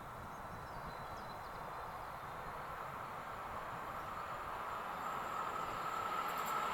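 ICE high-speed train approaching, its rolling noise growing steadily louder, with a thin steady whine that strengthens near the end. The train is heading for a stop at a signal because the block section ahead is still occupied.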